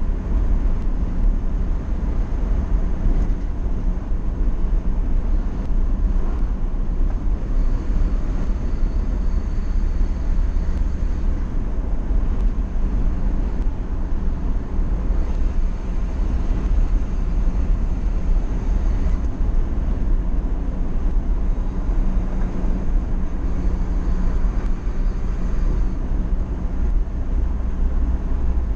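Motorcycle riding along, heard from a helmet-mounted camera: steady wind rush over the microphone with the engine's drone beneath it.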